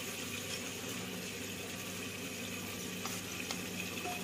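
Onion-tomato masala sizzling and bubbling steadily in an open pressure cooker as boiled mutton is spooned into it, with a few faint clicks of the spoon.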